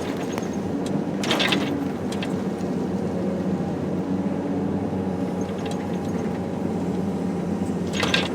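Excavator's diesel engine running steadily, with two short, noisy rushes: one about a second in and one near the end.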